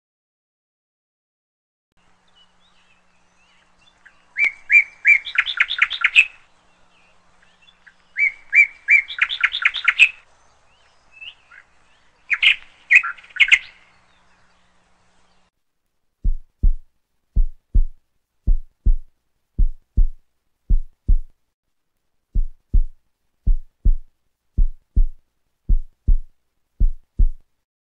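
A songbird singing three short trilled phrases, followed by a steady run of deep thumps in pairs, about one pair a second, in a heartbeat rhythm.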